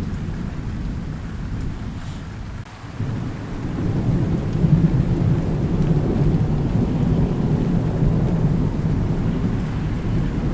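Thunderstorm: steady rain with low rolling thunder. After a brief lull, a long low rumble of thunder builds about three seconds in and rolls on through the rest.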